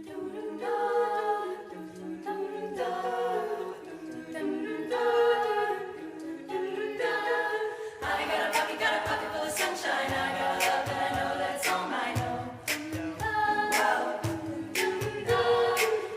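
A cappella group singing an introduction of sustained wordless chords that shift every second or two. About halfway through, a beat of sharp percussive hits and a low bass line come in under the harmonies.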